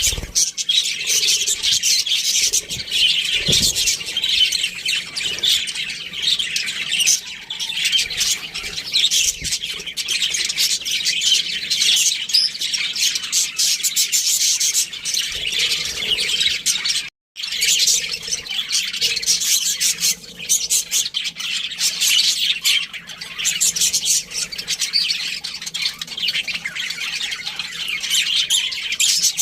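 A flock of budgerigars chattering: dense, overlapping chirps, warbles and squawks without pause. The sound cuts out completely for a moment a little past halfway, then resumes.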